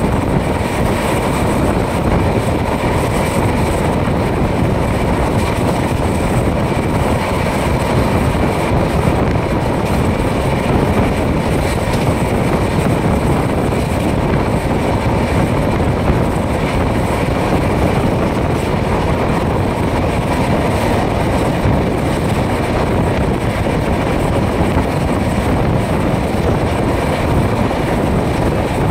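Passenger express train running at speed, heard from the side of one of its coaches: a steady, loud rush of wheel-on-rail noise and wind, with no breaks.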